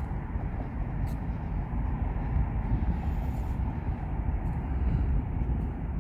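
Distant jet airliner engines, a steady low rumble.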